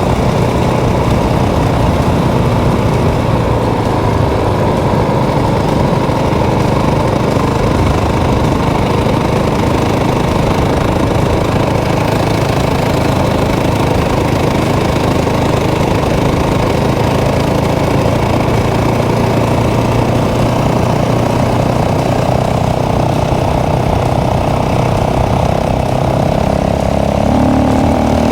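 Motorcycle engine running steadily while riding, with wind noise on the microphone; the engine note rises near the end.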